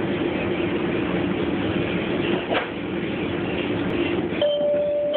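Train car running noise heard from inside the carriage: a steady rumble and hum. About four seconds in, a steady high tone starts and holds.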